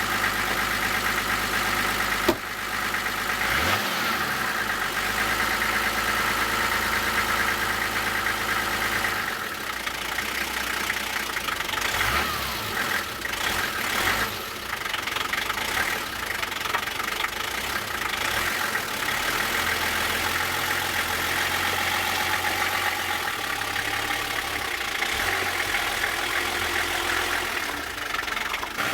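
Toyota Land Cruiser HJ60's 2H straight-six diesel engine running with a knocking diesel clatter. The engine speed shifts a few seconds in and again around the middle, with a sharp click about two seconds in.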